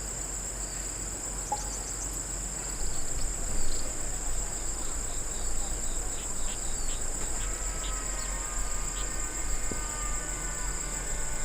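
Steady, high-pitched drone of an outdoor insect chorus, crickets or similar, with scattered faint clicks over it.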